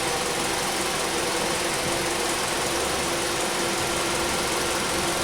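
Car engine running at a steady idle, an even running noise with a few faint steady tones.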